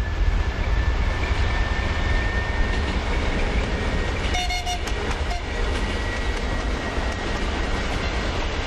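A moving train's steady rumble, with a short horn toot a little over four seconds in.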